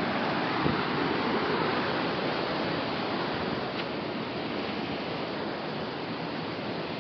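Steady rush of falling water from a waterfall or stream, slightly stronger in the first few seconds, with a brief knock under a second in.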